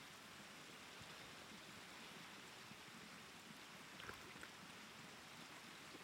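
Faint, steady rush of a small creek's flowing water, with a couple of faint clicks about four seconds in.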